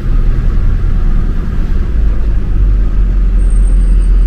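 Steady low rumble of a vehicle driving along a road, with no break in it; a faint, thin high whine comes in near the end.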